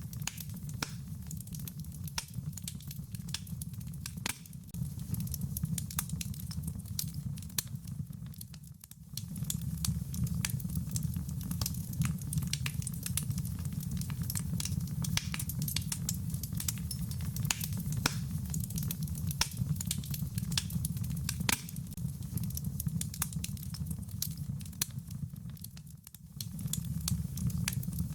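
Wood fire crackling with frequent sharp pops over a steady low rumble, mixed with rain pattering. The whole sound dips briefly twice, about nine seconds in and near the end.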